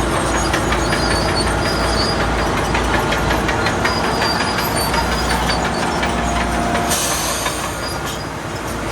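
Crawler bulldozer working: its diesel engine runs under a steady clatter of steel tracks, with a short hiss about seven seconds in.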